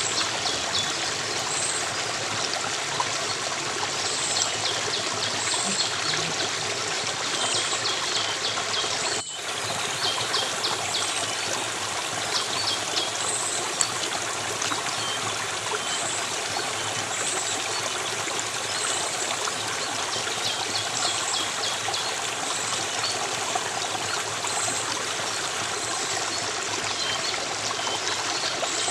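A stream of water running and trickling steadily, with faint high chirps repeating about once a second over it. The sound drops out briefly about nine seconds in.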